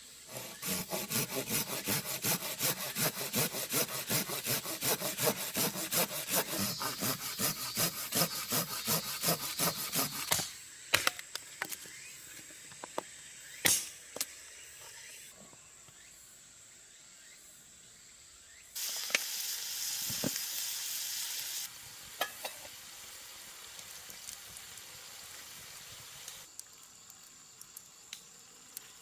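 Hand saw cutting through wood with quick back-and-forth strokes, about four a second, stopping after about ten seconds. A few sharp knocks follow, then a steady hiss lasting about three seconds.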